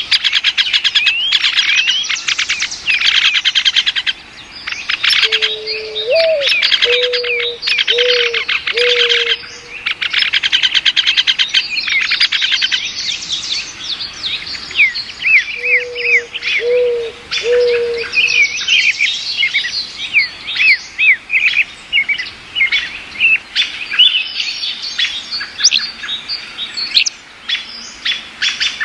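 Many small birds chirping and trilling in a dense, continuous chorus. Twice a short phrase of low, repeated cooing notes sounds beneath it.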